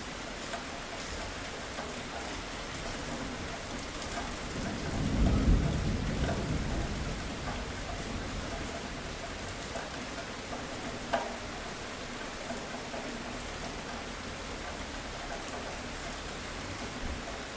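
Steady rainfall, with a low rumble of thunder that swells about five seconds in and fades over the next couple of seconds. A single sharp tick of a drop stands out near the middle.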